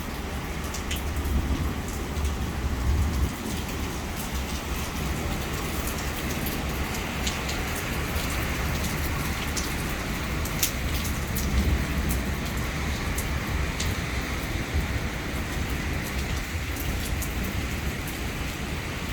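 Heavy rain pouring down, with scattered sharp ticks of drops striking hard surfaces and a low, gusting rumble of strong wind on the microphone.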